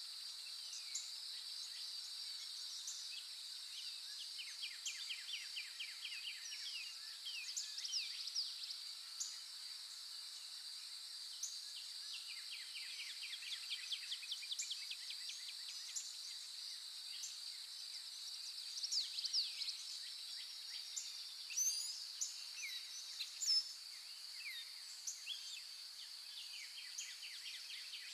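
A steady, high-pitched insect chorus, with songbirds chirping and giving rapid trills of short notes over it. A few louder bird calls come in the second half.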